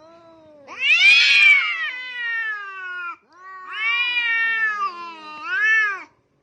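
A cat giving three long, drawn-out meows, each rising and then falling in pitch. The first is the longest and loudest.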